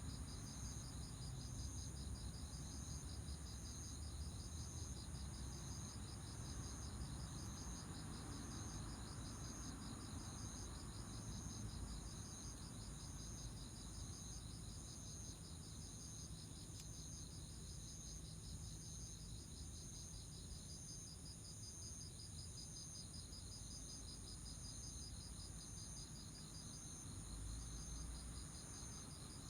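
Autumn insects, crickets among them, calling together in a steady chorus. Several voices overlap: a continuous high trill alongside a slower repeating chirp, with a faint low rumble beneath.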